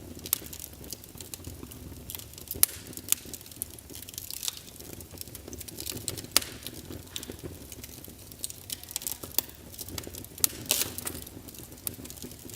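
Wood fire burning in a fireplace: logs crackling with frequent sharp pops over a low, steady rumble of flames, and a few louder pops scattered through.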